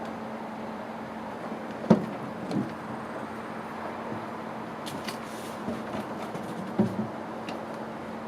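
A steady mechanical hum with one constant tone, broken by a few sharp knocks, the loudest about two seconds in and another near the end.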